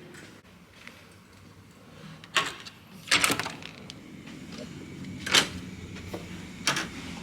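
A few sharp knocks and clicks, spaced a second or two apart, over a low steady hum; the loudest comes about halfway through.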